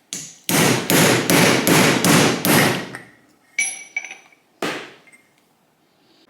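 Hammer blows driving a fork seal into a motorcycle fork leg: one strike, then a quick run of about six loud blows a little under half a second apart, then a few lighter knocks. The seal has already bottomed out against its keeper-ring seat, so the blows are crushing it.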